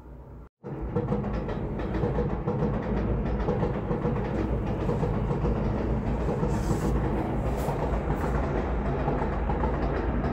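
A train running past on the tracks, a steady loud rumbling noise that starts abruptly just after a short dropout about half a second in.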